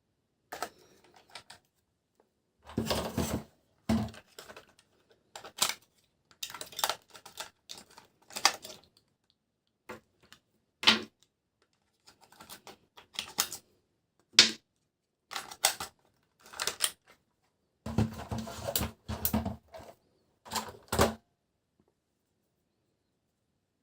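Plastic toy trains and their packaging being handled: irregular clusters of light clicks and clacks, with short pauses between them, stopping a couple of seconds before the end.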